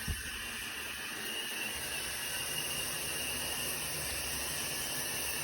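Steady hiss of running water from a bathtub shower or faucet.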